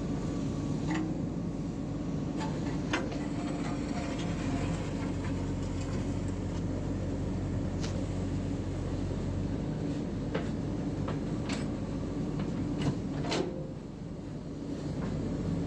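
Diesel engine of a JCB 3DX backhoe loader running steadily while working, with scattered sharp metallic clanks and knocks. The engine note drops for a moment near the end and then picks up again.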